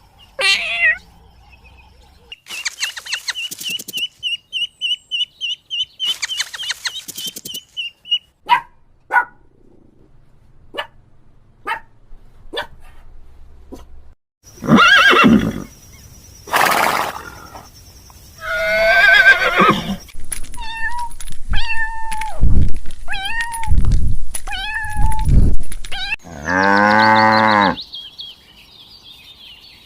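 A run of different animal calls, one after another with short gaps: a trilling call, some clicks, several calls that bend in pitch, a short call repeated about five times, and a long low call near the end.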